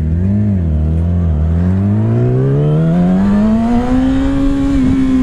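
Yamaha R6 motorcycle engine under acceleration. Its pitch wavers briefly, then rises steadily for about four seconds and levels off, with a short dip near the end.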